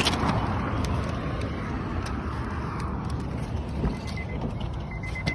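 Steady rumble of a car's interior, with a few small clicks and knocks. A faint, rapidly repeating high beep, like a car's warning chime, starts near the end.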